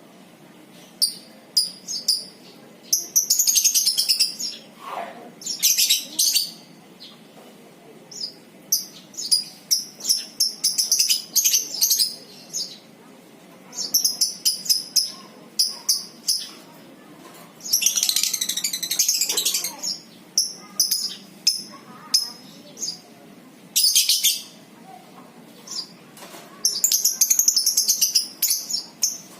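Lovebirds chattering in rapid, high-pitched bursts, some runs lasting a second or two, in the long rattling 'ngekek' song.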